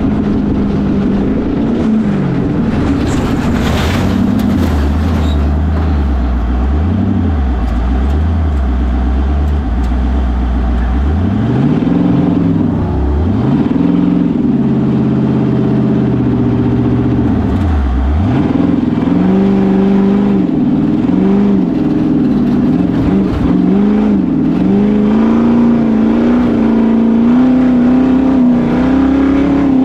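Ultra4 4400 race car's 6.0-litre LQ4 V8 running under load, its pitch rising and falling again and again as the driver works the throttle over rough ground. It runs low and steady for a few seconds near the start, then revs up and down repeatedly, with a short hiss a few seconds in.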